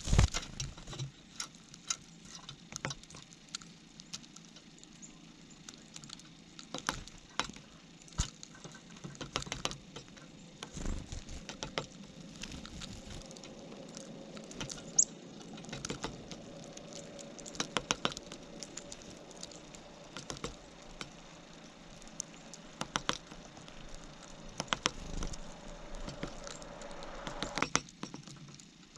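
Snow being shoveled: irregular crunches and scrapes of a shovel working in packed snow, with a faint steady hum in the background through the later part.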